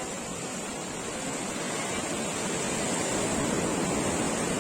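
Sea waves washing onto the shore as a steady rushing noise that swells to a peak about three and a half seconds in.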